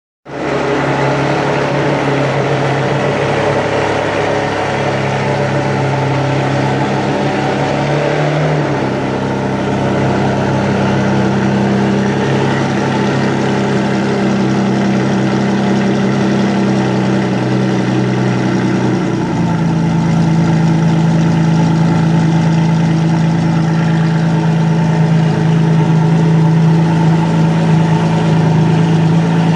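Ferrari Enzo's 6.0-litre V12 idling steadily. The idle note shifts pitch twice, about eight and nineteen seconds in, and is a little louder after the second change.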